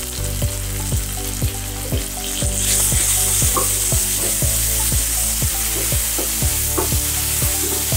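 Tomato and onion masala sizzling in oil in a kadai while a spatula stirs it, the sizzling growing brighter about three seconds in. Background music with a steady beat of about two thuds a second runs underneath.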